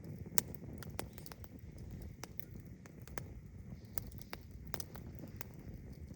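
Wood fire crackling: irregular sharp pops, a few a second, over a low steady rumble.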